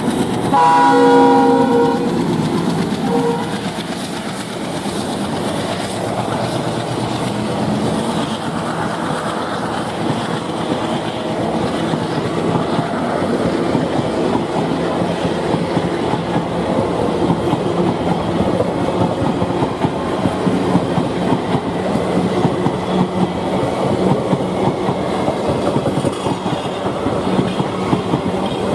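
A diesel locomotive horn sounds for about the first two seconds, then stops. After that, a train runs past with a steady rumble and the wheels clattering over the rail joints.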